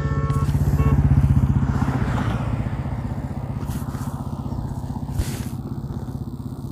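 Royal Enfield Himalayan's single-cylinder engine running steadily with a rapid, even pulse, getting louder over the first second and easing slightly after.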